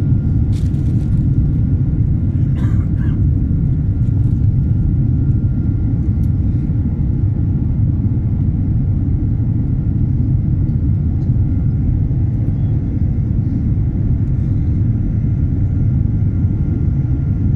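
Steady low rumble of an airliner cabin in flight, jet engines and airflow running evenly, with a faint steady whine above it. A few light clicks in the first few seconds.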